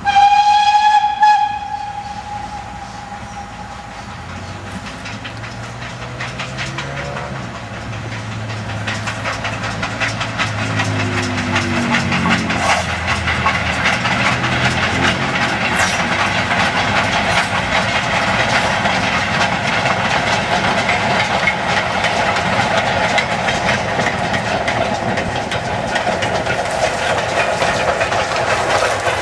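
Steam locomotive whistle, one short loud blast right at the start that dies away over a couple of seconds. Then a steam-hauled train draws near and runs past, growing louder with steam hiss, exhaust and the clatter of wheels over the rail joints.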